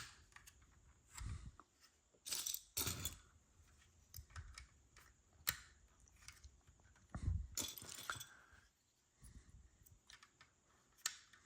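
Small plastic building bricks clicking and rattling as they are handled and pressed together, in faint scattered bursts with one sharper click about halfway through.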